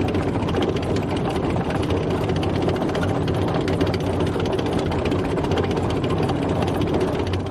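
Tank driving: a steady, heavy engine with a fast, even clatter running through it.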